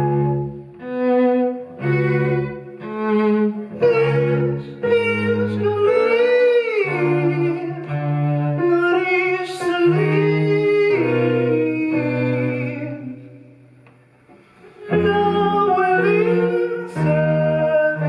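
Chamber ensemble music led by bowed strings, with the cello to the fore, playing held notes that change about once a second. It drops away briefly about three-quarters of the way through, then comes back in.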